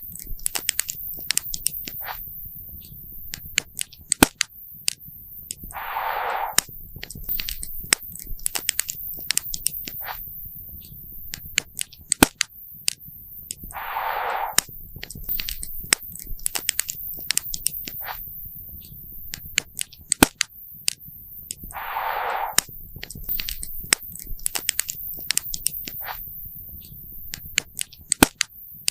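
Wood campfire crackling, with frequent sharp irregular pops and snaps over a low rumble of burning. A short burst of hiss comes up about every eight seconds.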